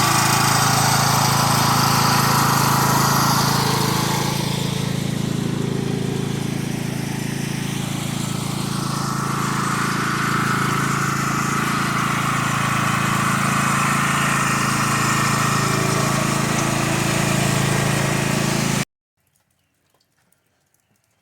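An engine running steadily, with a constant low hum, that cuts off suddenly near the end.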